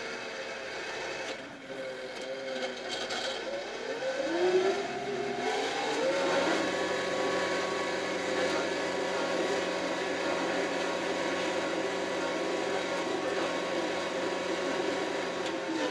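Kioti RX7320 tractor's diesel engine under work, running at a lower speed at first, then revving up about four to six seconds in and holding a steady higher speed.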